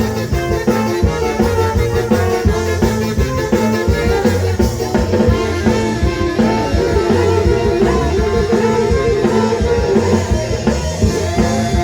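Ska band playing live: an instrumental passage of drum kit, guitar and brass over a steady beat.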